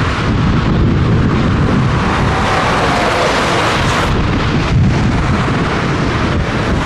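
Scania truck on the road: a steady mix of engine and road rumble, heavily buffeted by wind on the microphone.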